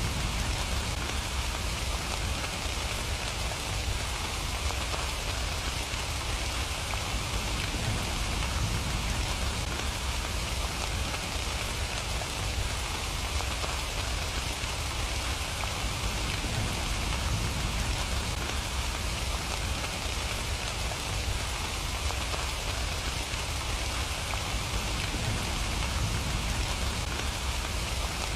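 Steady rain falling and pattering on surfaces, an even hiss with a low rumble underneath and no breaks.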